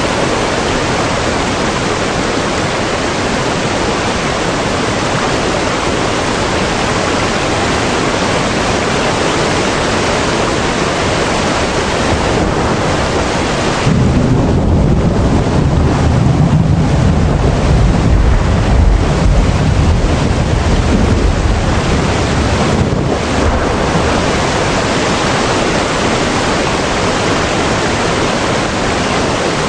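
Steady rushing noise, with a deep rumble that swells from about halfway and fades a few seconds later.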